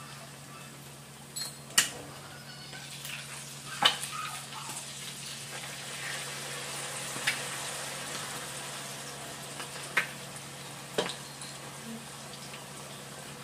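Vegetable fritters frying in hot oil in a pan: a steady sizzle that grows louder around the middle. Five sharp clicks and knocks are spread through it.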